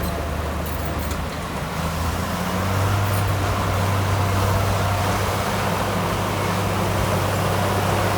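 Diesel engine of heavy earthmoving machinery running steadily with a deep hum. It picks up slightly in pitch and loudness about two and a half seconds in.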